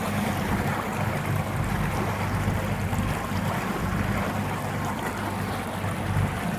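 Motorboat engine running steadily with a low hum, under wind and water noise.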